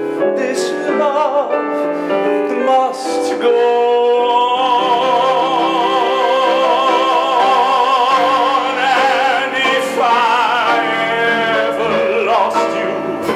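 Male singer holding a long note with wide vibrato over piano accompaniment, the final held note of the song.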